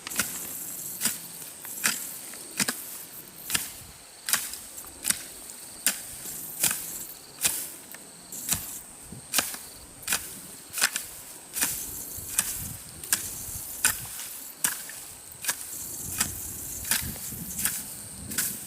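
A hand tool chopping into grassy ground in steady, even strokes, a little over one a second, as grass is cleared by hand.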